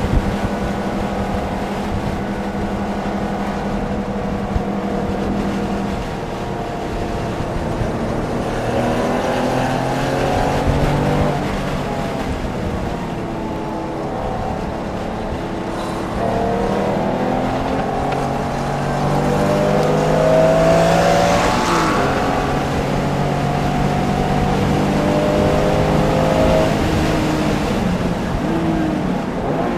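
Porsche engine being driven hard on a race track: it revs up, its pitch climbs and then drops at each gear change or lift, several times over.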